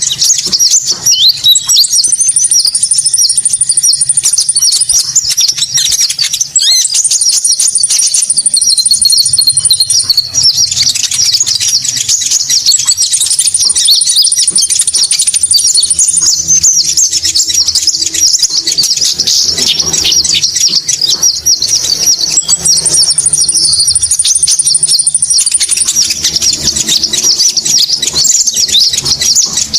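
Konin bird calls played as a lure: dense, rapid, high-pitched chirping and twittering without a break, with a long, thin, even higher trill coming back every five or six seconds.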